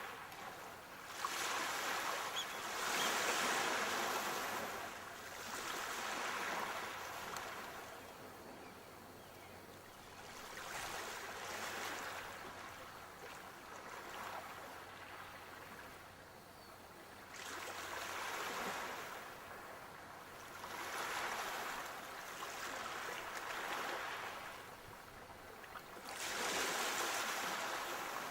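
Sea waves breaking and washing up the shore, surging about every three to six seconds.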